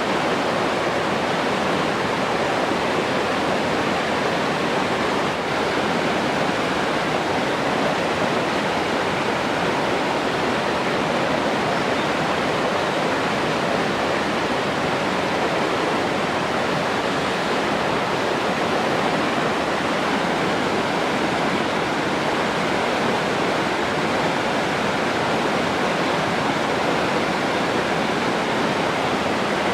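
Rushing water, like a waterfall or fast stream, making a steady, even hiss that does not change.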